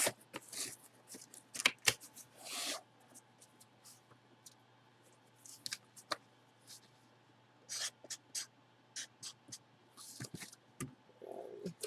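Hands handling a jersey box and its packaging: scattered light taps and clicks with a few brief rustles, the longest rustle about two and a half seconds in.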